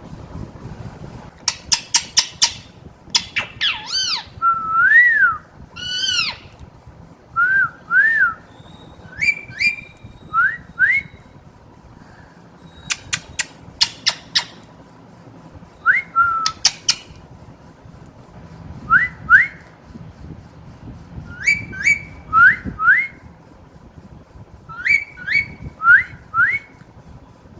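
Pet green parrot whistling: groups of short rising whistled notes with pauses between them, mixed with bursts of sharp clicky calls.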